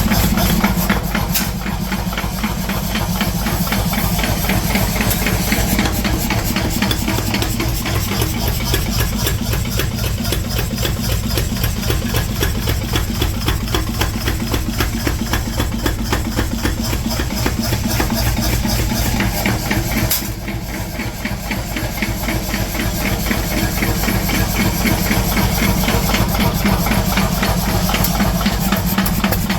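Forging-shop machinery running continuously with a rapid, even rhythm of mechanical strikes, dipping a little in level about twenty seconds in.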